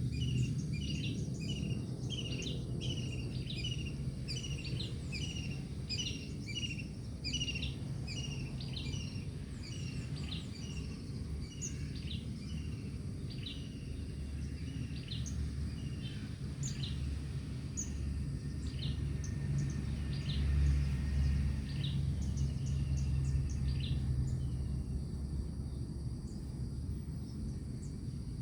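White-breasted waterhen chicks peeping: short high chirps repeated about twice a second, thinning out to scattered chirps after about twelve seconds, over a steady low rumble of background noise.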